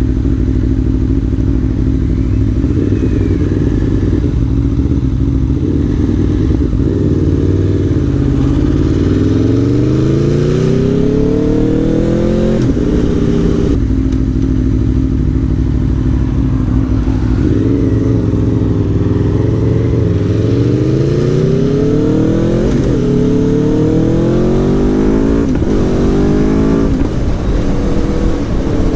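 Aprilia Tuono V4 1100 Factory's V4 engine pulling hard, its pitch rising through the revs and dropping sharply at each upshift, four times in all: once about halfway through and three times in quick succession near the end.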